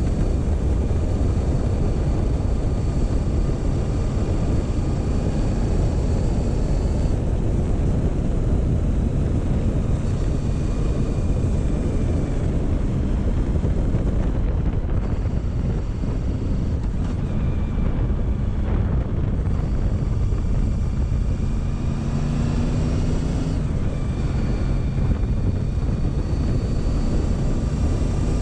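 Motorcycle engine running at a slow, easy road pace, with a heavy low rumble of wind and road noise on the microphone; the engine note rises briefly about two-thirds of the way through.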